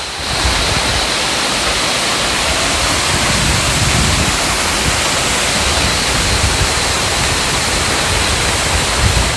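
Fast-flowing stream water rushing steadily, a loud even hiss of whitewater.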